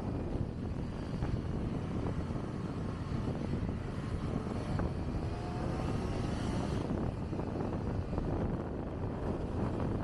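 Kawasaki Ninja ZX-25R's 250 cc inline-four running on the move under a steady rumble of riding wind on the microphone. A faint rising engine whine comes through between about the middle of the stretch and two-thirds in.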